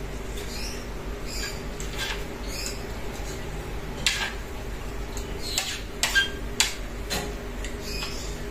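Faint bird chirps over a steady low hum, with several sharp clicks in the second half.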